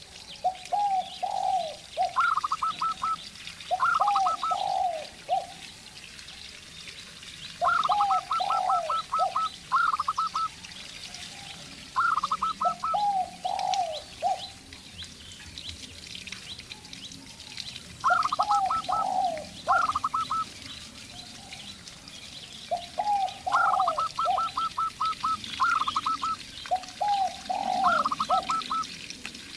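Zebra dove and spotted dove calling in repeated bouts every four to five seconds. Each bout is a quick run of high staccato notes mixed with lower, falling coos. Small birds chirp faintly throughout.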